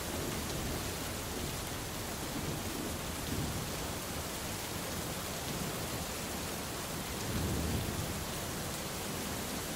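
Steady rain falling, an even hiss, with low rumbles of thunder underneath; the strongest rumble swells about seven and a half seconds in.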